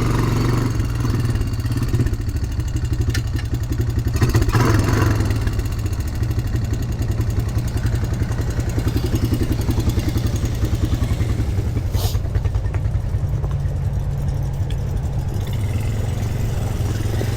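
ATV engine running at low, steady revs with an even throbbing beat, and a couple of brief knocks along the way.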